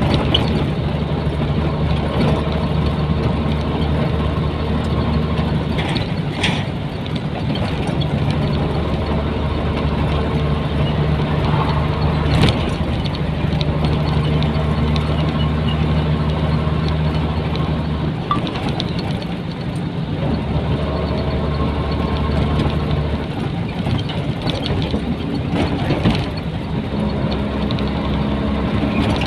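Nissan Diesel container truck's diesel engine running steadily while driving, its note stepping up and down in pitch a few times. A brief sharp knock about halfway through.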